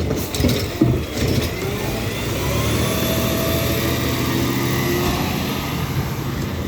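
Peterbilt 520 garbage truck with a McNeilus ZR body: a few clanks in the first second or so, then the diesel engine revving up with a rising whine and running on steadily.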